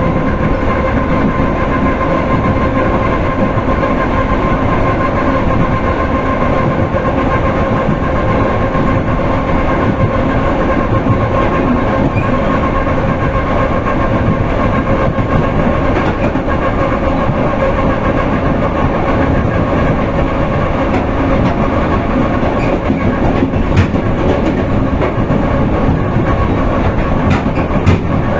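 Suburban electric train (elektrichka) running at speed, heard from inside the carriage: a continuous rumble of wheels on the rails with a steady hum over it. A couple of sharp clicks come near the end.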